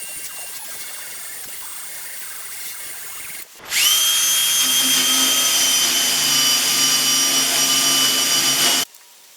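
Power tool motor spinning up with a quickly rising whine, running at a steady high pitch for about five seconds, then cutting off suddenly. Before it there is a softer steady hiss.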